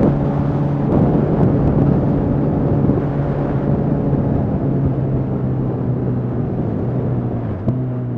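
Yamaha FZ6R's inline-four engine running at steady revs while riding, with wind rushing over the helmet microphone. The engine note dips briefly near the end.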